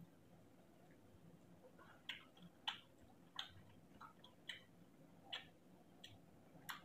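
Faint eating sounds of a person eating rice by hand: soft, irregular clicks and smacks of chewing, about eight of them from about two seconds in.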